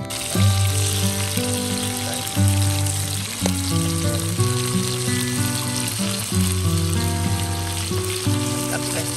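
Chunks of meat with whole onions, garlic and lemongrass sizzling in hot oil in a frying pan, over background music with a stepping bass line.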